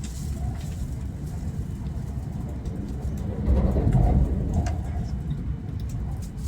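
Low running rumble of an E8 series Shinkansen heard from inside the carriage as it accelerates, with a louder swell about three and a half seconds in.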